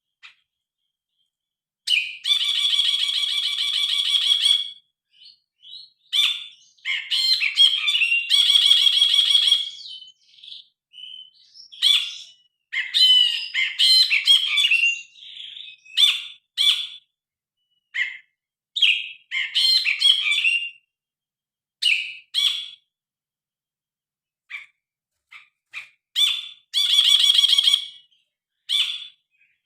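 Brinji kelabu, a grey bulbul, singing in a loud, varied series: several long buzzy, rattling phrases mixed with many short sharp chirps and whistles, after about two seconds of quiet.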